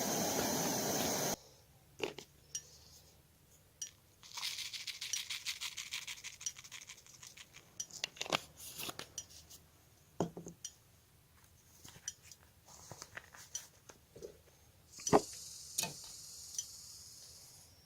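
Crinkly rustling and handling noises with scattered small clicks and clinks, in two spells. A steady hiss at the very start cuts off abruptly about a second and a half in.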